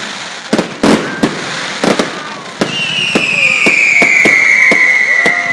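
Fireworks display: several sharp bangs of bursting shells, then from about halfway a loud whistle that slowly falls in pitch, from a whistling firework.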